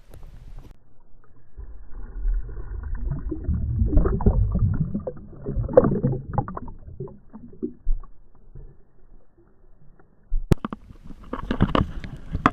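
Water splashing and sloshing mixed with rustling handling noise, loudest in the middle, then a sharp knock about ten and a half seconds in followed by a stretch of light clattering.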